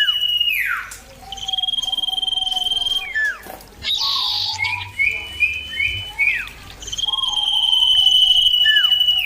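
Common iora singing: long, steady, high whistles of one and a half to two seconds each, ending in a quick downslurred note. A run of about five short chirps comes in the middle.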